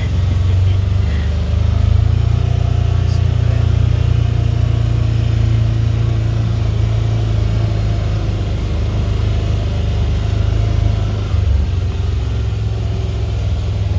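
Engine of a farm vehicle running steadily as a low, even rumble, heard from on board while it drives.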